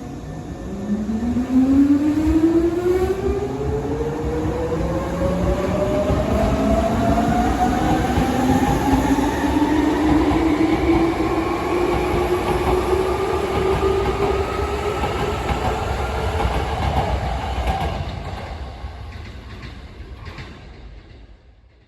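Hankyu 3300-series electric train accelerating: its traction motors and gears whine, the tones climbing steadily in pitch for about fifteen seconds over a low running rumble. Near the end the sound dies down, then cuts off.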